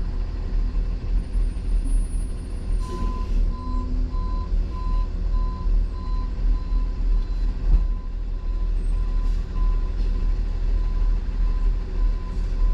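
Truck engine idling with a low rumble while a reverse alarm beeps steadily, about two beeps a second, starting a few seconds in with a click.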